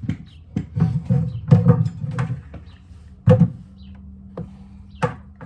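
Irregular knocks and clatter of the mower blade and tools being handled and set in place, with a faint steady hum starting a little past halfway; the grinder is not cutting.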